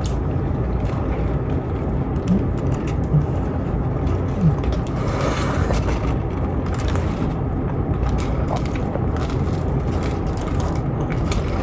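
Eating sounds: chewing and small clicks, with a brief rustle about five seconds in, over a steady low rumble.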